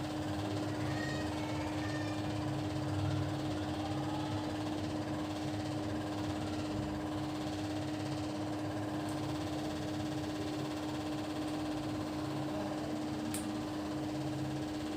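Steady machine hum with one constant tone over a low rumble, unchanging throughout.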